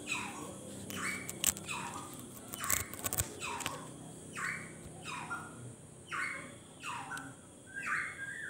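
A bird calling over and over, about once a second, each call a falling sweep followed by a short, steady higher note. A few sharp clicks and knocks from handling come in the first few seconds.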